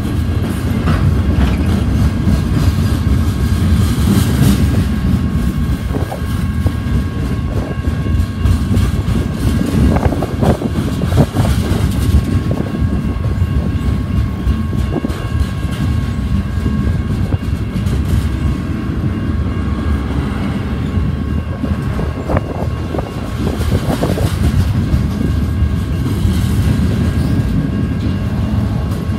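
Freight cars rolling past at speed: a steady heavy rumble of steel wheels on rail, broken by occasional clanks and clicks as wheels cross the rail joints and the crossing, with a thin steady high tone above it.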